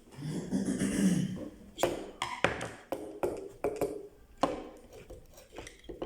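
Sharp clicks and taps at irregular spacing as the small plastic and metal parts of a dismantled clothes iron are handled.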